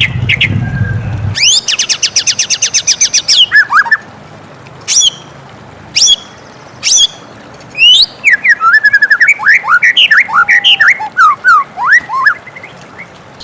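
White-rumped shama singing: a fast trill, then a rapid run of high repeated notes, a few sharp single notes, and a long stretch of varied rising and falling whistled phrases. A low hum underneath stops about a second and a half in.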